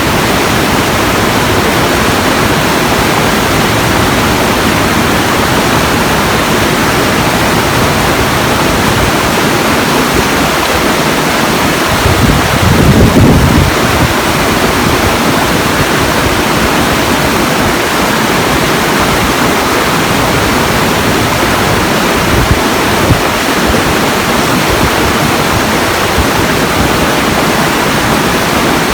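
Steady, loud rushing of water, with a brief deeper surge about halfway through.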